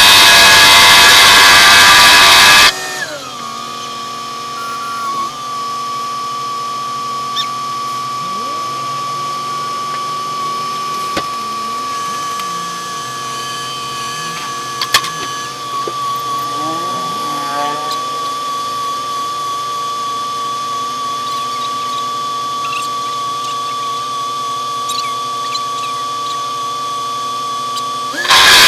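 A machine running with a steady high-pitched whine, which takes over after a louder, noisier sound cuts off suddenly about three seconds in; the loud sound returns just before the end.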